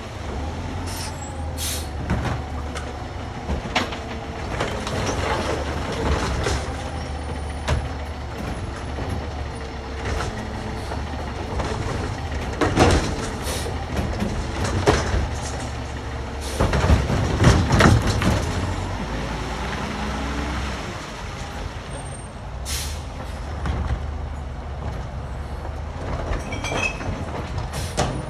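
Recycling truck's engine running steadily, with loud clanks and thumps in the middle stretch and a few short air-brake hisses.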